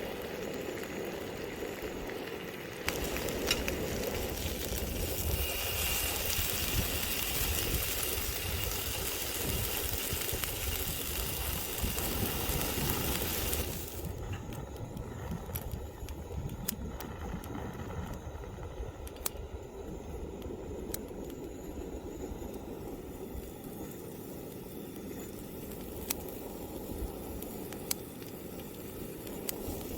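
Food sizzling in a hot pan, a steady hiss with scattered sharp pops and spatters, which drops to a quieter sizzle about fourteen seconds in.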